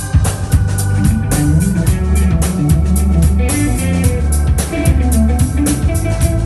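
A band playing live: drum kit keeping a steady beat with bass and guitar underneath, no singing.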